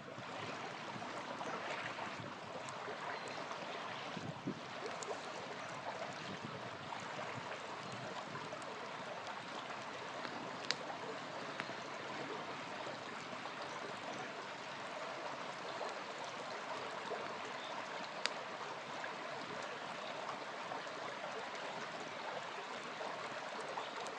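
Small river flowing steadily, with a few single sharp pops from a burning campfire.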